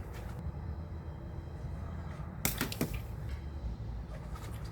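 Two quick sharp knocks about two and a half seconds in, typical of a plastic wiffle ball being struck or landing, over a low steady rumble.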